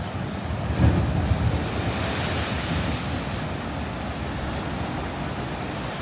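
Sea surf washing in, a rushing noise that swells and fades over a couple of seconds, with wind gusting on the microphone about a second in.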